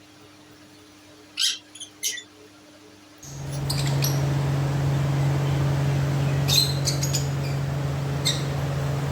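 Small birds chirping in short high calls. A few seconds in, a steady low hum with hiss starts suddenly and runs under further chirps.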